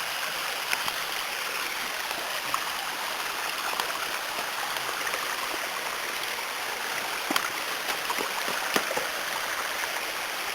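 Spring-fed creek running over rock ledges and small falls: a steady rush of water, with a few sharp clicks scattered through.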